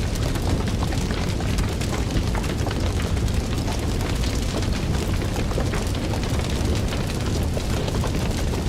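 Fire burning steadily: a continuous low rumble of flame with dense, irregular crackling and small pops throughout.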